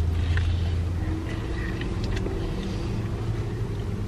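Low steady hum of a car idling, heard from inside the cabin, with a few faint small clicks.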